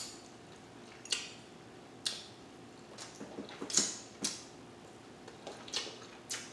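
Cutlery clinking against a plate and dishes: about seven short, sharp clicks at uneven intervals.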